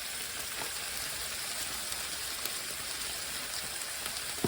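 Chicken frying in a pan: a steady sizzle with faint scattered crackles. A single sharp click near the end.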